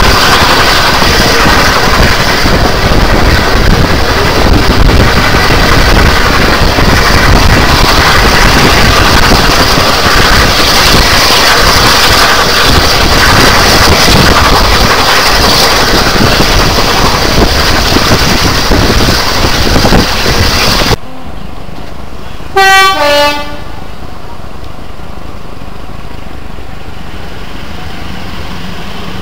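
Loud rushing wind and rail noise from a moving heritage train, heard at an open carriage window. The noise cuts off suddenly about two-thirds of the way through, and a short loud toot from the train sounds a moment later, followed by quieter steady running as the train draws into a station.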